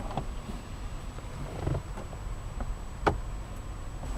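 A few short clicks and knocks from interior controls being handled in a car cabin, the sharpest about three seconds in, over a low steady rumble.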